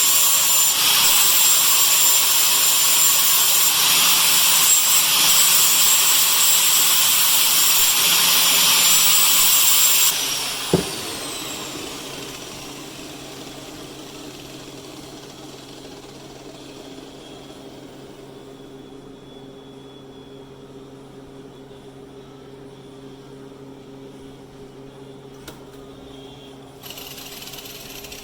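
Electric grinder running at high speed, grinding at the weld repair on a cast iron engine block. About ten seconds in it is switched off, and its whine falls as it spins down. A single sharp click follows, then a faint low hum.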